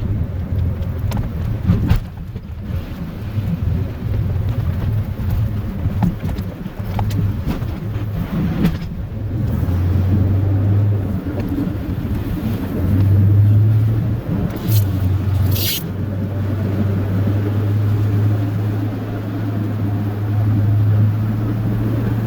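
Chevrolet plow truck's 8.1 L Vortec gas V8 running steadily with a low hum, with two short high squeaks about fifteen seconds in.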